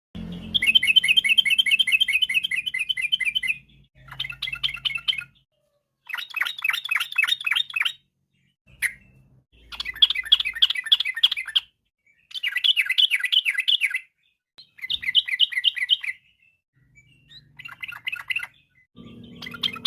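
Yellow-vented bulbul (trucukan) singing: fast, bubbling chattering phrases, each one to three seconds long, repeated about eight times with short pauses between.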